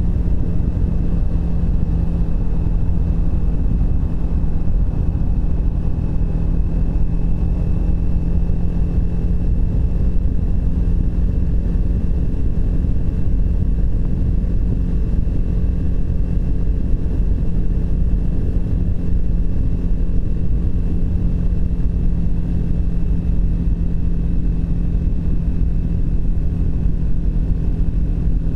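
Triumph Speed 400's single-cylinder engine running at a steady cruise, its note holding an even pitch throughout, over a heavy low rumble.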